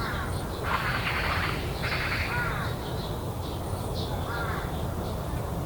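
A crow cawing: two harsh calls about a second apart, with shorter, fainter bird calls around them.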